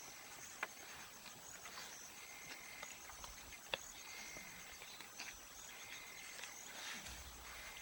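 Lions feeding on a wildebeest carcass: faint chewing and tearing with a few sharp cracks, the clearest about half a second in and near four seconds in, over steady chirping of insects.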